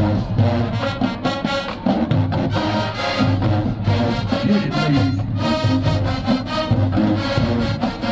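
Brass band music with a steady beat: horns and trombones playing an upbeat tune over drums.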